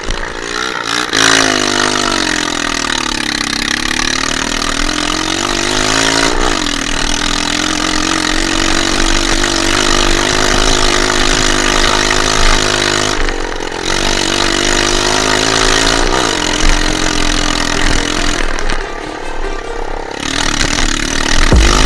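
Dirt bike engine running under riding, its pitch dipping and climbing in the first few seconds, then held steady, with a brief drop in revs about two-thirds of the way in and another near the end.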